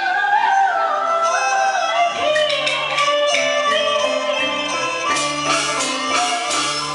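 Taiwanese opera (gezaixi) music: singing with gliding pitch over instrumental accompaniment, with a bass line coming in about two seconds in.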